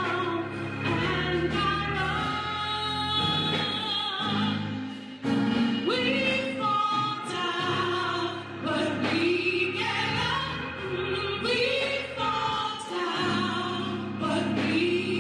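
Gospel music: sung melody with vibrato over sustained instrumental accompaniment, with a short break about five seconds in.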